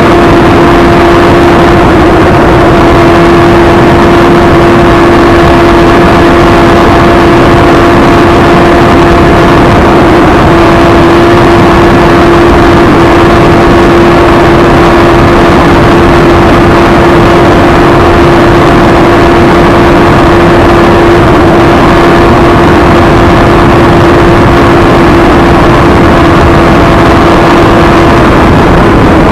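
Sport motorcycle engine held at steady high revs, one constant engine note over a loud rushing noise.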